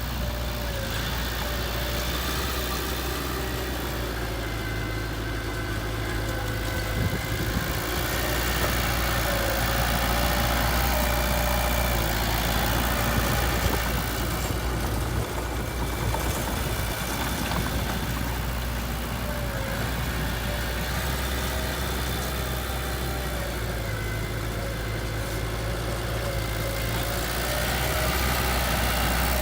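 Heavy construction machine's diesel engine running steadily at low revs, with a faint wavering higher tone above the engine note.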